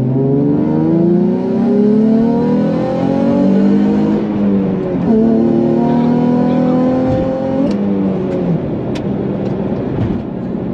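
Nissan Fairlady Z's V6 engine through an aftermarket muffler, revving: its pitch climbs steadily for about four seconds, drops sharply about five seconds in, climbs again, then falls back around eight seconds in to a steady note.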